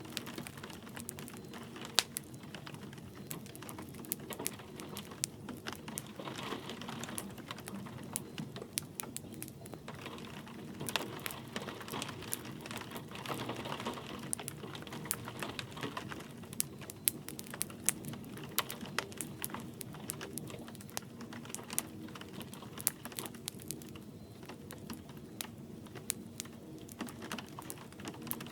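Wood fire crackling with frequent sharp snaps and pops, the sharpest about 2 seconds in, over a low rumble of the flames and a soft hiss of light rain.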